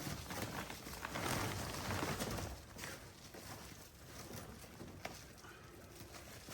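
Rustling and handling noise of a fabric-covered Reflectix window blind being fitted into a truck camper shell window and pressed onto Velcro, with a few light knocks; busier in the first couple of seconds, then quieter.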